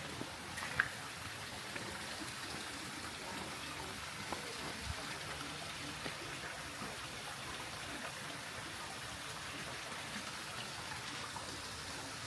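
Steady flowing water, an even hiss with a few faint clicks, the sharpest about a second in.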